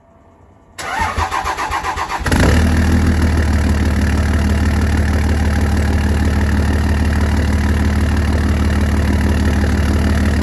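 Third-generation Cummins diesel with a big turbo cold-starting at 23 °F. The starter cranks in a pulsing rhythm for about a second and a half, the engine catches a little over two seconds in, and it settles into a loud, steady idle.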